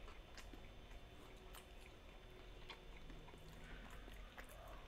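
Faint chewing of a fried chicken nugget with a hard, crunchy crust: scattered soft crunches and mouth clicks at an irregular pace.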